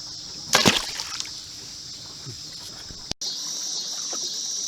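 A loud splash in the river about half a second in, as a big catfish is let go over the side of the boat, with a smaller splash just after. A steady high drone of insects runs underneath.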